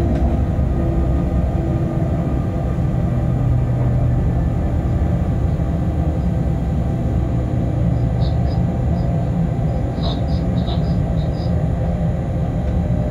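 Freight locomotive cab noise while running: a steady low rumble of the wheels and running gear on the track, with a faint steady hum over it. A few light high ticks come about eight to eleven seconds in.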